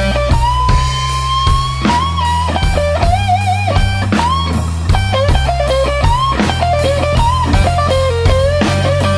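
Slow blues played by a band: an electric guitar solo of long, bent notes with vibrato over bass guitar and drums.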